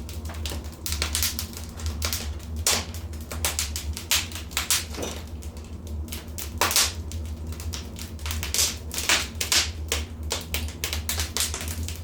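Wood fire crackling in a fireplace: irregular sharp pops and snaps, several a second, over a steady low hum.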